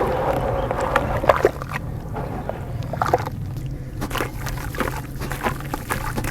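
Chunks of dry dirt crumbling in water: scattered crackles and small splashes over a steady low hum.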